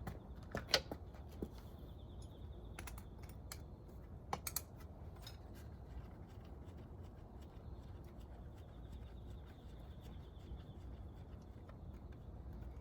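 Light clicks and knocks of tools and engine parts being handled, several in the first few seconds and then only the faint steady background hum of the workspace.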